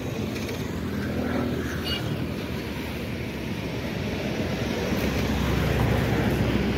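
Low, steady rumble of a distant train approaching along the tracks, growing a little louder near the end.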